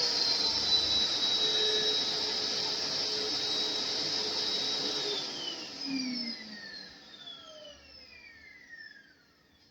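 Philips Series 9000 bagless vacuum cleaner running with a steady high whine, then switched off about five seconds in, its motor spinning down in several falling whines that fade away.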